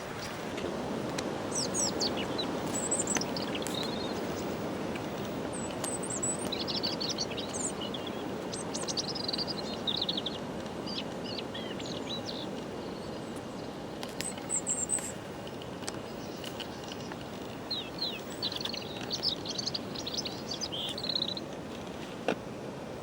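Small birds chirping and trilling in short, scattered bursts over a steady rushing background noise.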